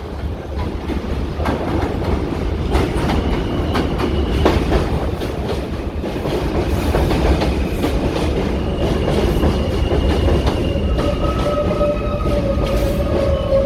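R160 subway train running along the BMT Jamaica Line with a steady low rumble and irregular clacks of wheels over rail joints. A steady high whine joins in about eleven seconds in.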